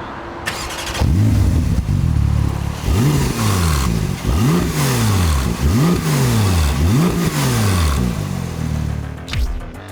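Porsche 992 Turbo S twin-turbo flat-six running through an Akrapovič titanium exhaust. It gets louder about a second in, then is revved about five times in quick succession, each rev rising and falling in pitch.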